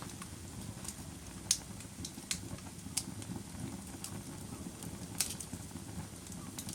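Wood fire crackling: a steady low rumble of burning with sharp, irregular pops and snaps about once a second, the loudest about a second and a half in and again near five seconds.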